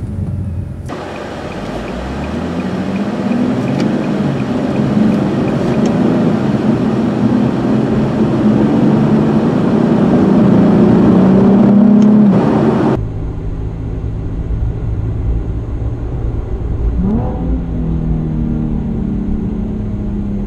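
A car engine pulling hard under acceleration, its pitch climbing and the sound growing louder for about eleven seconds before easing off. After a sudden cut at about 13 s, a steadier engine and road drone from a car cruising, with a brief rise in engine pitch near 17 s.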